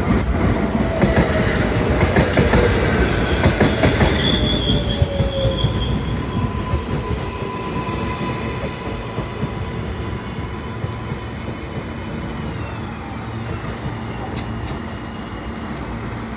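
NYC subway L train pulling into the station: wheels clattering over rail joints and squealing in the first few seconds, then a drawn-out wheel squeal and falling motor whine as it slows, the overall noise easing off.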